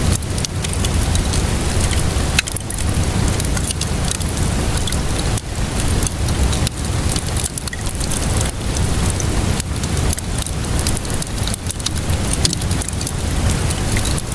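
Steady rainfall with a wood fire crackling over it: a continuous wash of rain noise and a low rumble, broken by many quick sharp pops and snaps from the burning wood.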